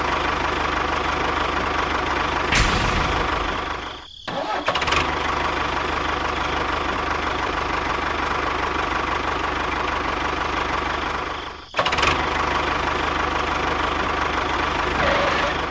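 A motor running steadily with a dense, buzzing drone, dropping out briefly about four seconds in and again near twelve seconds.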